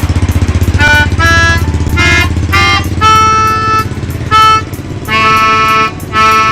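Khaen pipes with their free reeds blown one note at a time, as the reeds are tested for pitch: about eight short reedy tones of different pitches, a few held for up to a second, over a steady low throbbing hum.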